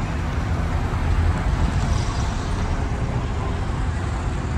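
Steady low rumble of car engines running, with general outdoor noise over it.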